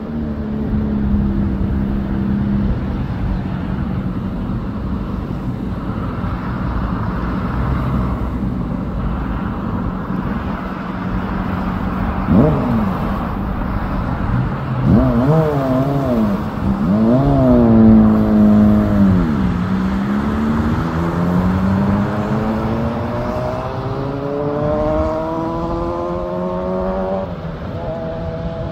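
A vehicle engine revs in quick up-and-down swells about halfway through, then climbs steadily in pitch for several seconds as it accelerates. Underneath runs a steady low hum and the wash of breaking surf.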